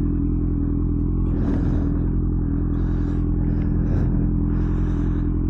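Motorcycle engine idling steadily, with a few brief hissing noises over it.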